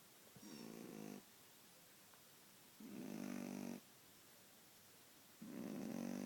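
Shih Tzu snoring: three snores, each about a second long, coming about every two and a half seconds with quiet between them.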